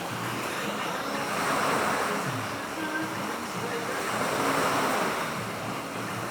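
Ocean waves washing onto a shore, the surf noise swelling twice as waves come in and fall back.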